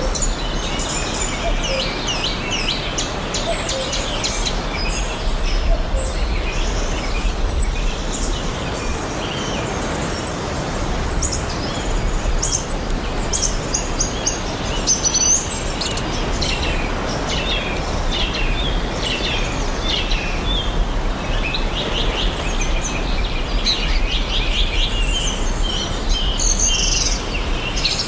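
A chorus of songbirds chirping and twittering in many quick, overlapping high calls, over a steady rushing background hiss and a low rumble.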